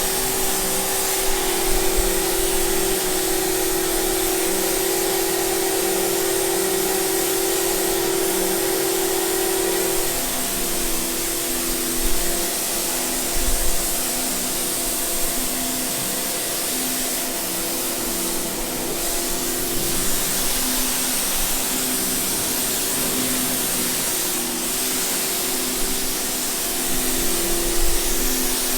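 A cleaning machine's motor running steadily under a loud, even hiss, such as a pressure washer or vacuum cleaner makes. Its hum changes pitch about ten seconds in.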